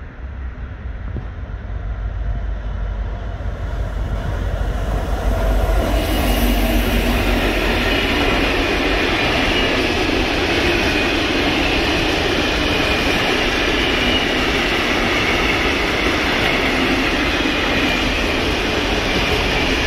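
A train passing close by. The noise builds over the first six seconds, then holds as a steady, loud rush of wheels on rail.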